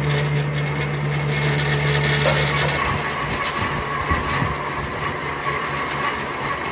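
Electric power tool running against wood, a steady motor hum over a noisy grinding, with the motor's tone changing about three seconds in.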